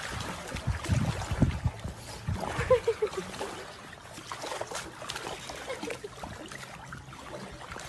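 Water splashing and trickling, with a few heavier low thumps of splashing about a second in.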